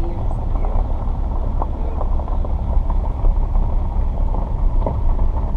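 Steady low rumble of a car's engine and running gear, heard from inside the cabin with a window down, with a few faint knocks.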